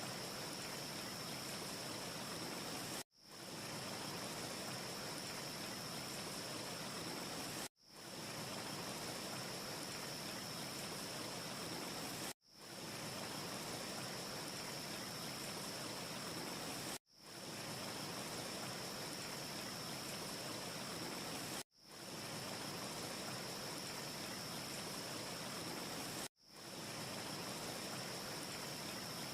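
Steady, even rushing hiss of a wind ambience track, with no fire crackle to be heard. The sound is a short loop that drops out to silence for a moment and fades back in about every four and a half seconds.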